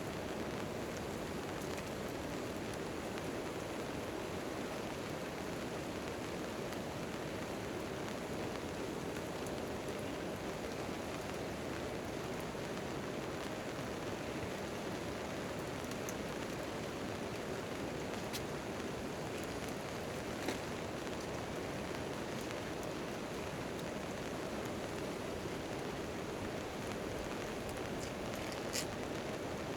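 Steady rain falling on a tent tarp, an even patter throughout. A few sharp clicks stand out over it: once around the middle and a couple near the end.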